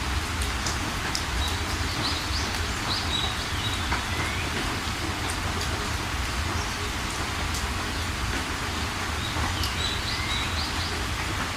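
Steady rain falling, with birds chirping over it in short bursts of quick rising and falling calls, a few in the first seconds and again near the end.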